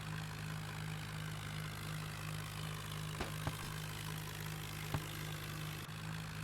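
Tractor engine running steadily with a low, even hum, with a few faint clicks about three and five seconds in.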